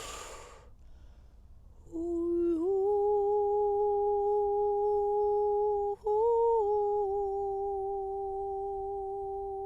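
A woman's voice humming long, steady held notes as vocal toning. After a short rush of noise at the start, a note slides up slightly and is held for about four seconds, breaks off briefly, steps up for a moment, then settles into another long held note.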